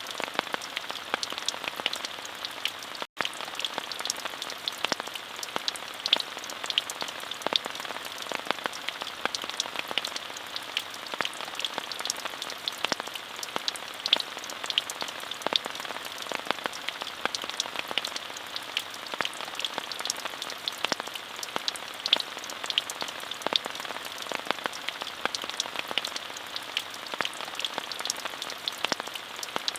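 Steady rain: an even hiss of rainfall with many distinct drop taps scattered through it. The sound drops out for an instant about three seconds in.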